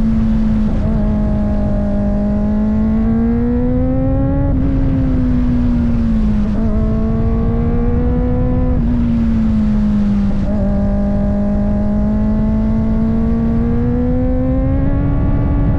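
Kawasaki ZX-4RR's 399 cc inline-four engine running under way, its note rising and falling with the throttle. The pitch changes abruptly a few times, about every two to four seconds.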